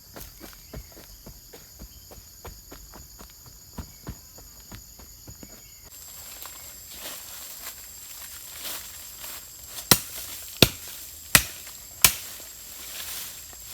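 Blade chopping wood: four sharp, loud chops about 0.7 seconds apart near the end, over a steady high insect drone of crickets or cicadas. Before them, light clicks and rustling of handling or footsteps; the drone's pitch shifts about six seconds in.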